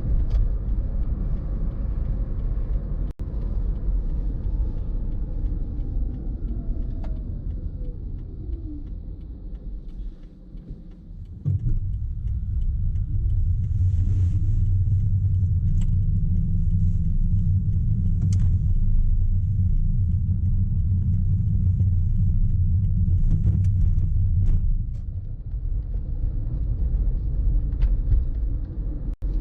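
Low rumble of a car on the road, as heard by a camera mounted on the car. A whine falls in pitch as the car slows, the sound drops briefly, then a louder steady rumble comes back from about a third of the way in.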